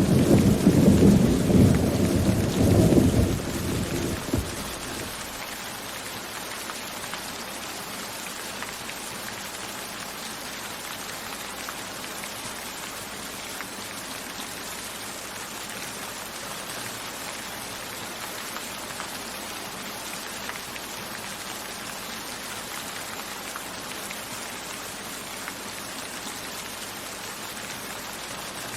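Steady rain falling, with a thunder rumble that fades out about four seconds in.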